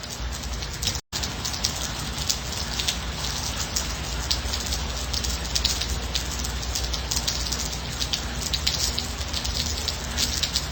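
Steady gentle rain, a continuous hiss with many close individual drop hits on top. The sound cuts out for an instant about a second in.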